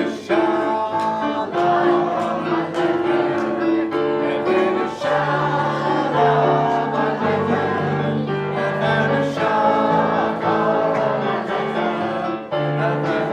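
A choir singing held notes over instrumental accompaniment, with a low bass line coming in about five seconds in.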